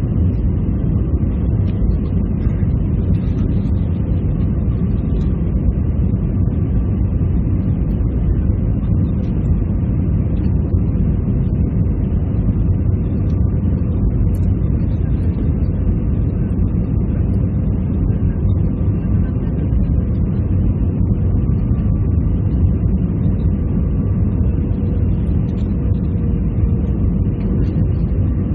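Steady cabin noise inside an Airbus A320-214 airliner: an even, low-heavy rumble of the engines and rushing air, with a faint steady hum on top and no change in pitch or level.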